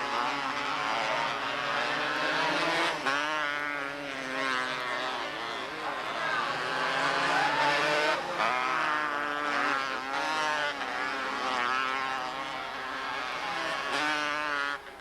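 Several small open-wheel race car engines running at racing speed, their pitch rising and falling again and again as the cars rev and pass.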